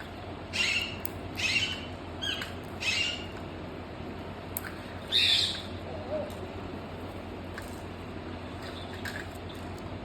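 A parrot giving about five short, harsh squawks in the first half, then falling mostly quiet, while it is held for its wing feathers to be clipped.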